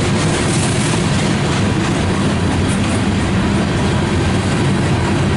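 CSX freight train cars rolling past at track side, a steady loud noise of steel wheels on rail.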